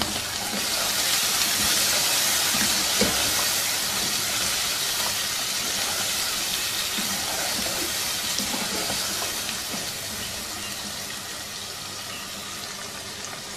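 Mutton and onion frying in hot oil in a pot, sizzling steadily as a ladle stirs them. The sizzle swells about a second in and slowly dies down toward the end.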